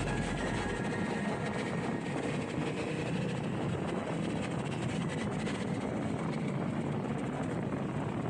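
KTM Super Adventure 1290 S V-twin motorcycle on the move, a steady blend of engine and wind noise with no change in pace.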